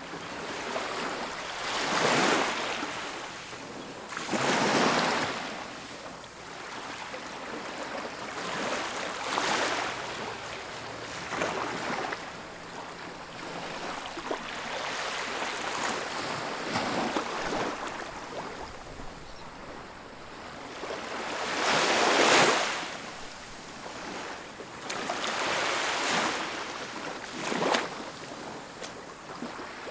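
Ocean waves breaking and washing onto a beach, swelling and falling back every few seconds, with one loudest break about 22 seconds in.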